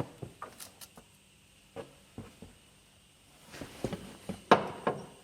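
Scattered light clicks and knocks of hand tools and parts being handled during drive shaft boot work. They grow busier past the middle, with the loudest knock about four and a half seconds in.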